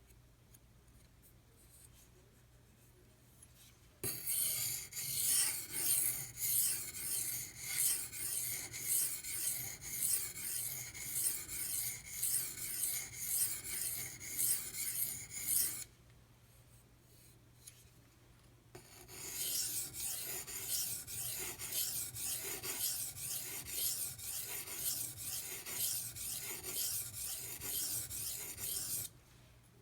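Steel knife blade stroked across a Pride Abrasive 1000-grit aluminium oxide sharpening stone, a rasping scrape in a steady rhythm of strokes. It starts about four seconds in, runs for about twelve seconds, pauses briefly, then runs again for about ten seconds.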